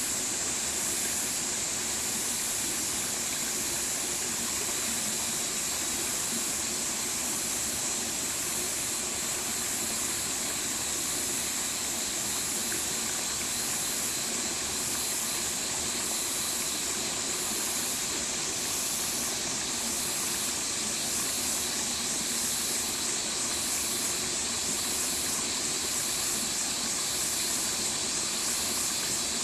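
Stream water flowing and rushing steadily, an even hiss with no break.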